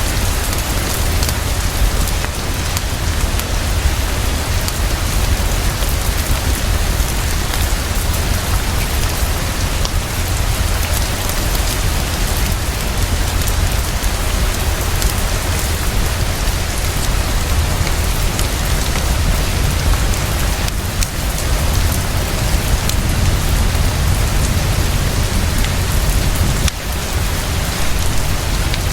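Heavy, fast, steady rainfall with a deep, constant low rumble underneath, mixed with the soft crackle of a fireplace.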